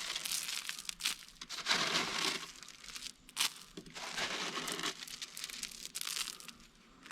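Irregular crinkling and rustling in short bursts, the sound of something being handled or rummaged through.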